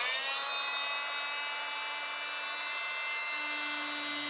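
Oscillating multi-tool cutting along a drawn line in camper-floor plywood. It comes up to speed right at the start, then runs with a steady high buzz.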